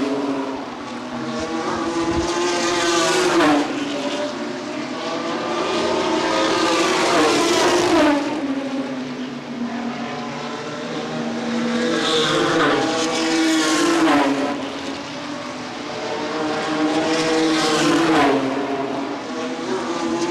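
Race trucks running at racing speed on an oval, their engines swelling and fading as they pass one after another, with the pitch bending down as each goes by.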